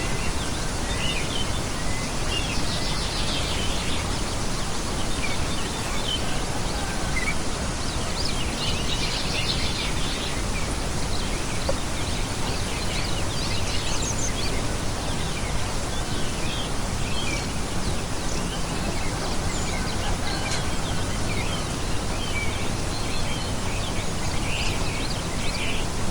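Small songbirds chirping in short, scattered calls over a steady background hiss of outdoor noise, with brief denser flurries of chirps about three and nine seconds in.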